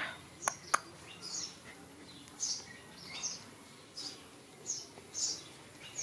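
Small birds chirping in short, high calls repeated every second or so, with two sharp clicks close together near the start.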